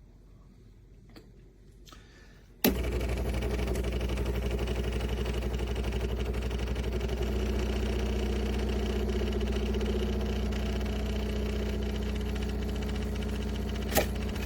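De'Longhi TrueBrew coffee maker starting its first brew cycle: after a short quiet spell a click, then the machine's motor starts suddenly and runs with a steady mechanical hum, with another click near the end.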